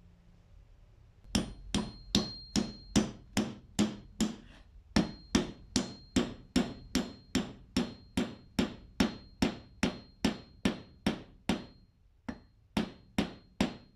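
A hammer striking metal in a fast, even rhythm of about two and a half blows a second, each blow with a brief high ring. There is a short pause near the end before a few more blows.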